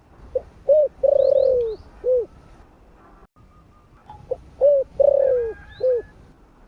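Spotted dove cooing: two repeated phrases, each a short coo, a stronger coo, a long falling coo and a short closing note. Faint chirps of small birds sound above them.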